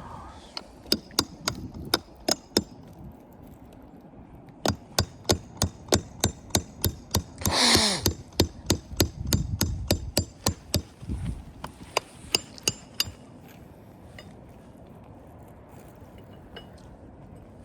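Hammer driving roofing nails into shingles on a roof: a few quick strikes near the start, then a long even run of strikes about three a second, with a brief rushing noise about halfway through.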